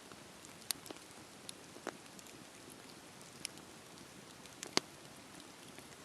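Wood bonfire crackling: a faint steady hiss with irregular sharp pops, the loudest almost five seconds in.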